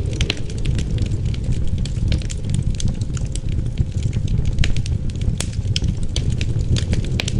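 Wood fire crackling in a fireplace: many small sharp pops over a steady low rumble of wind.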